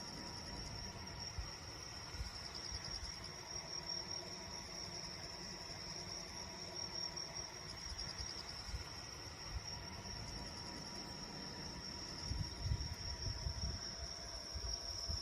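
Insects chirping in a steady high trill that runs without a break, over a faint low rumble.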